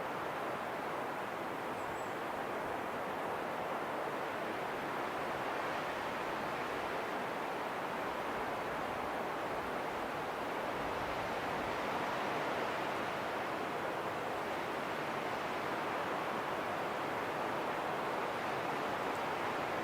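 Steady rushing wind, an even hiss with no distinct events, swelling slightly now and then.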